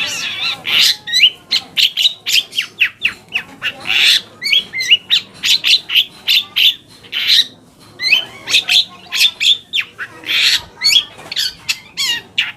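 Long-tailed shrike (cendet) singing hard: a rapid run of short whistled and chirped notes, several a second, mixed with harsh, scratchy calls.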